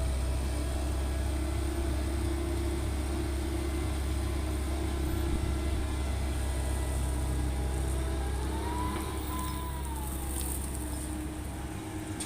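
Komatsu PC130-8 excavator's diesel engine running steadily under load while digging and loading laterite. A whine rises and falls once about eight seconds in.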